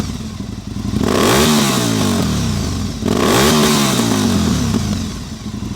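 Aprilia ETV 1000 Caponord's 1000 cc V-twin through a GPR carbon aftermarket exhaust, blipped twice from idle. Each rev rises in pitch and falls back, the second starting sharply about three seconds in.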